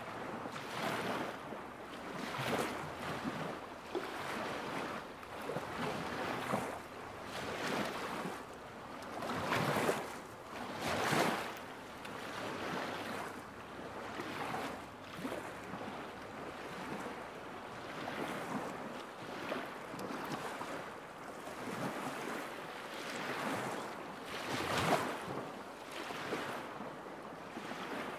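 Small lake waves lapping at the shore, an irregular wash of water that swells and ebbs every second or two, with a few stronger splashes.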